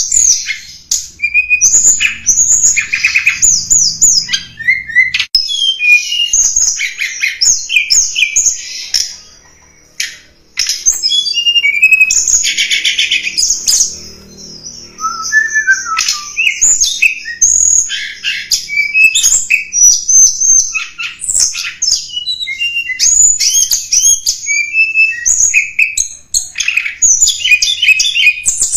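Tledekan gunung (Sunda robin) singing a fast, varied run of high chirps, trills and whistled notes, with one brief pause about ten seconds in. This is a lure call, used to draw in wild birds of the same kind.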